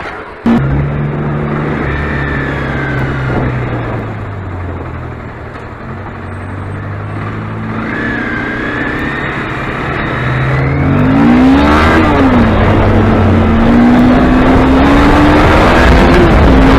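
A racing car's engine, loud and close. Its pitch falls through the first half, climbs in several quick rising sweeps a little after ten seconds in, then holds high and steady, with a faint whine above it.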